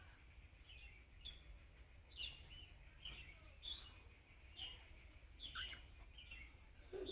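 Budgerigar giving short, high chirps, about ten at irregular intervals, faint over a low background rumble.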